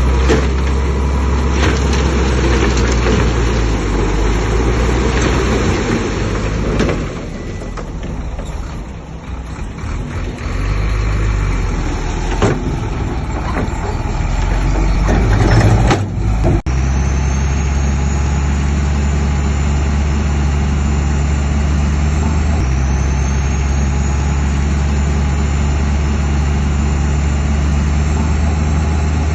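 Heavy diesel engine of earthmoving machinery running under load with a deep, steady hum. It eases off for a few seconds about a quarter of the way in and cuts off abruptly about halfway, then resumes steady, with a faint rising whine twice.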